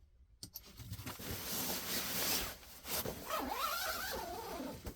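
Camping gear being handled at close range: a drawn-out rasping rustle that sounds like a zipper being worked, with a wavering squeak-like tone near the end.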